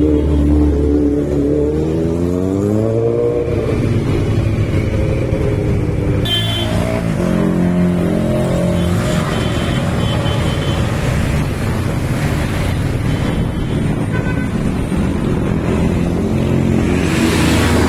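Motorcycle engines running loudly: one revs up about two to three seconds in, then after a sudden change about six seconds in several engines hold steady speeds, with another rev rising and falling near the end.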